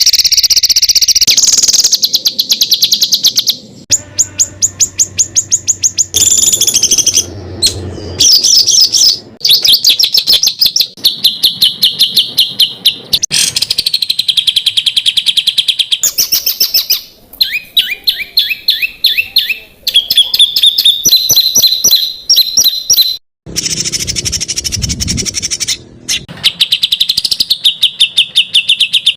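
Songbirds giving rapid-fire 'tembakan' calls: fast runs of sharp, high repeated notes, several different birds' snippets spliced together with abrupt cuts between them.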